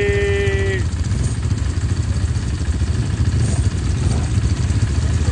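Motorcycle engine running steadily during a ride, a constant low rumble.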